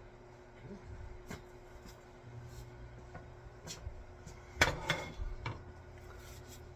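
Scattered light wooden clicks and knocks, with one louder cluster of knocks a little past halfway, over a low steady hum.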